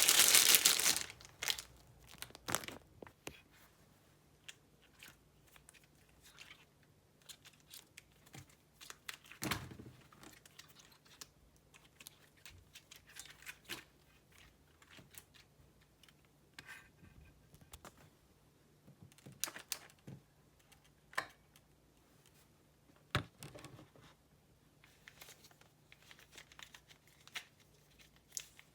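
Plastic packaging crinkling and tearing as fidget toys are unpacked and handled, with scattered sharp clicks and rustles. The loudest tear or rip comes right at the start.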